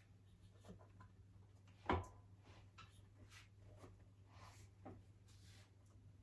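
Faint handling noises, light rustles and small clicks, with one sharp knock about two seconds in, over a low steady hum.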